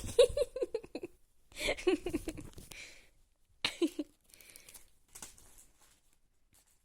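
Tempo paper tissues rustling and crinkling as a cat plays with them, with three short runs of quick pitched voice sounds in the first four seconds.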